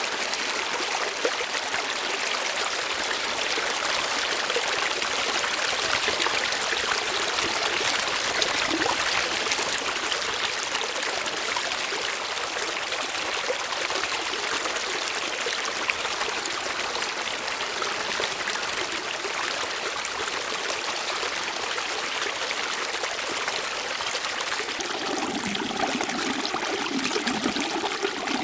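Steady flowing water, like a stream running over rocks, with a deeper gurgle joining in near the end.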